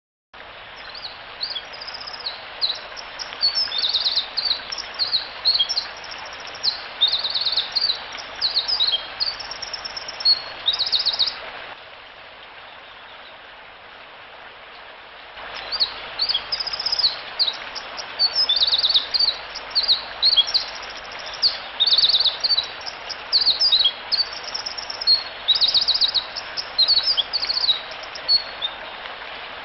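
A songbird singing two long runs of rapid, high-pitched notes and trills, with a pause of a few seconds between them, over a steady background hiss.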